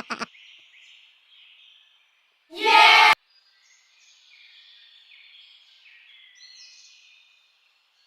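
Birds chirping faintly and steadily, with one sudden loud burst lasting about half a second, about two and a half seconds in.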